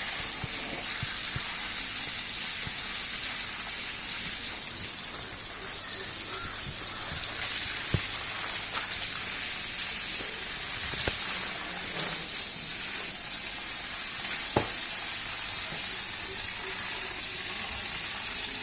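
Water spraying from a hose onto a paved courtyard, washing off flood silt, a steady hiss with a few sharp knocks along the way.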